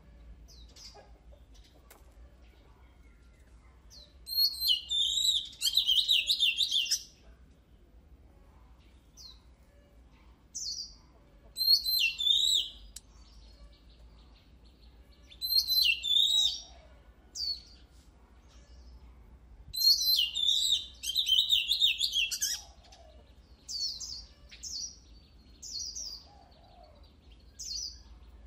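Oriental magpie-robin singing in loud bursts of rapid, varied whistles and trills, about four phrases a few seconds apart, with short single whistled notes in the gaps between them.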